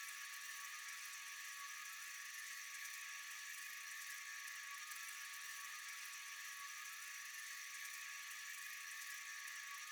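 Faint, steady, high-pitched chorus of night insects, unchanging throughout.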